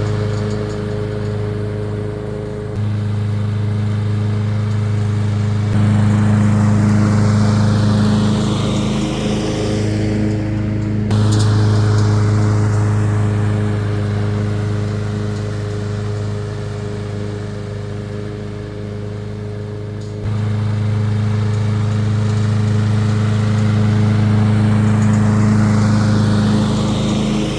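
Masport Rotarola petrol rotary lawn mower running steadily while mowing, its engine hum shifting abruptly in loudness a few times, near 3, 6, 11 and 20 seconds in.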